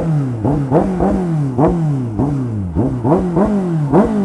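Motorcycle engine revved in quick, repeated throttle blips, about two to three a second. Each blip rises sharply in pitch and then falls away.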